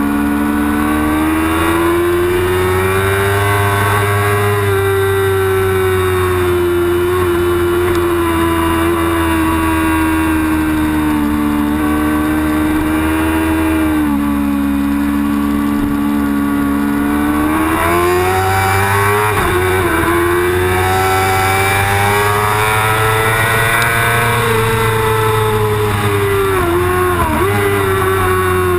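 Yamaha R6 sport bike's inline-four engine at racing revs, heard onboard, pitch rising and falling with the throttle through corners. Short pitch drops and jumps appear about two-thirds of the way in and again near the end, as the rider shifts gears.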